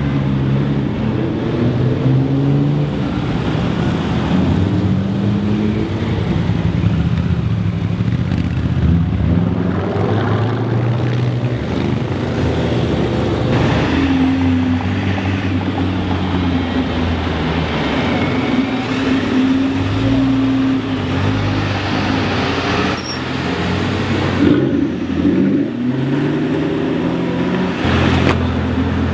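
Sports car engines accelerating away in city traffic, their note rising and falling in pitch as they rev and change gear.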